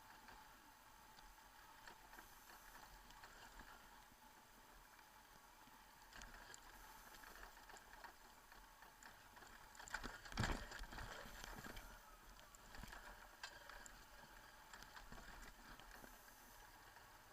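Near silence: a faint steady hiss, with one brief sharp knock about ten seconds in.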